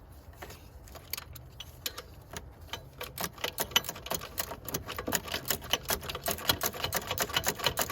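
Hand ratchet wrench clicking as it tightens an alternator mounting bolt: a few scattered clicks at first, then rapid, steady clicking from about three seconds in.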